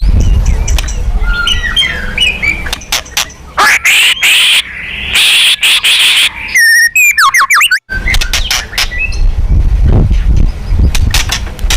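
White-rumped shama (murai batu) song: a fast, varied run of chirps, sweeping whistles and rapid trills, spliced together with abrupt cuts, over a steady low rumble.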